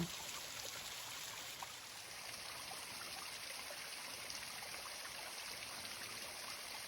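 Steady rush of flowing stream water, an even hiss without any change.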